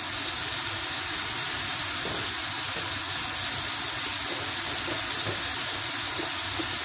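Onion-tomato masala sizzling and bubbling in oil and water in a black iron wok: a steady hiss.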